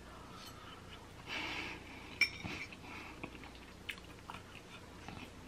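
Close-miked chewing of a mouthful of sweet potato with pecans. About two seconds in, a metal fork clinks sharply against a plate, and a few lighter taps follow.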